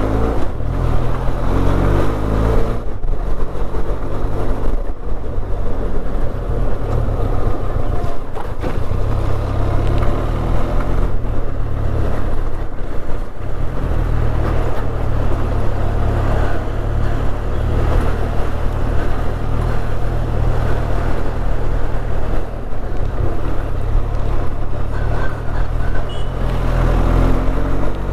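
Motorcycle running on the road, with a steady heavy wind rumble on the rider's microphone.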